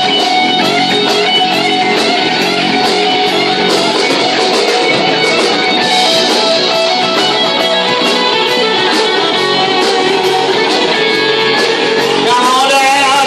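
Live rock band playing an instrumental passage led by electric guitar, with drums keeping a steady beat.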